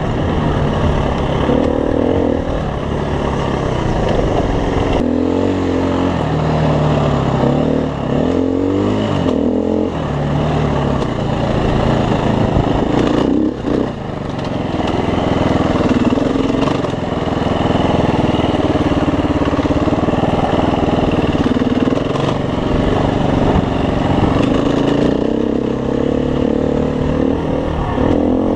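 Dirt bike engines running and revving, the pitch rising and falling and changing abruptly several times, with a brief dip about halfway through.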